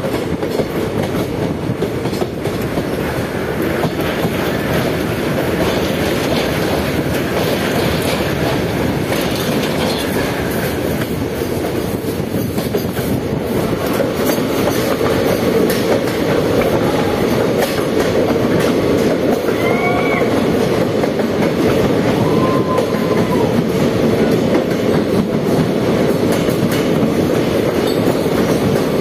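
A train running on the rails: a steady rumble with the clickety-clack of wheels over rail joints, and two brief high-pitched wheel squeals about two-thirds of the way through.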